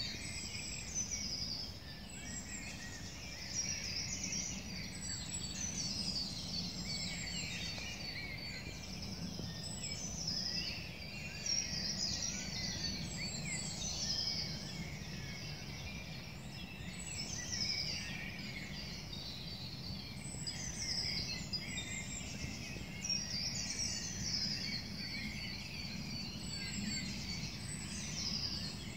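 Several songbirds singing in woodland, overlapping phrases of short high falling notes and trills, with a low steady rumble underneath.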